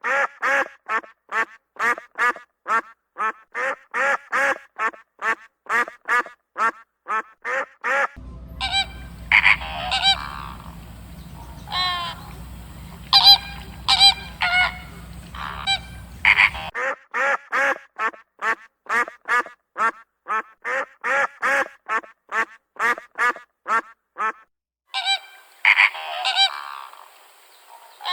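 Waterfowl calling: quick runs of calls, about three a second, alternate with louder, spaced-out honks. A steady low hum sits under the honks for several seconds in the middle.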